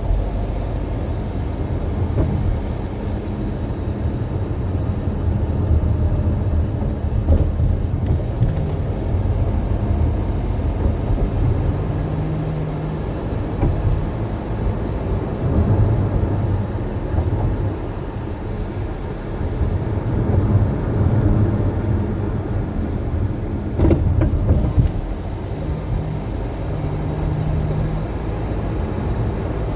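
A 2008 Acura RDX driving, with steady low road rumble and a few sharp knocks from the suspension over bumps: two about a quarter of the way in and two close together near the end. The owner thinks the knock comes from the front end.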